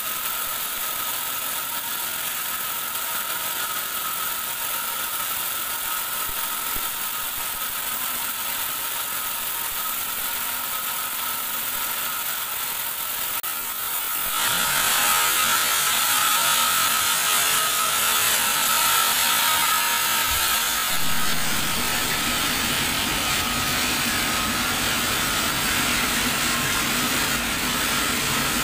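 Band sawmill running with a steady whine; about halfway through it grows louder and hissier, and a low hum joins a few seconds later, as the blade works through a teak log.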